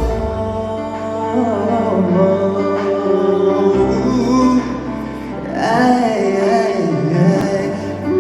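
Live pop ballad: a male singer holding long, wavering notes over a band accompaniment.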